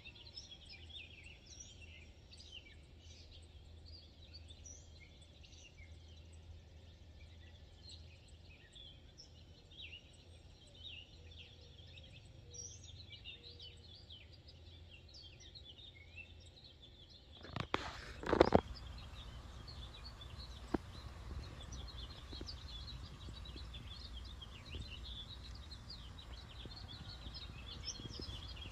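Many small birds chirping and calling in a steady chorus of short, high notes. A few loud knocks, like handling of the microphone, come about two-thirds of the way in.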